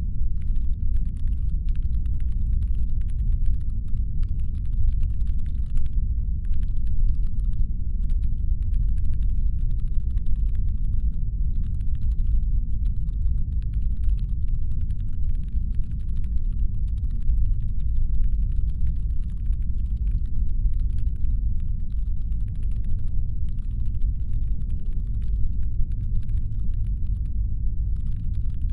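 Steady deep brown-noise rumble, a designed spaceship engine hum. Over it comes a fainter layer of rapid fine ticking that starts about a second in and stops and restarts in short patches.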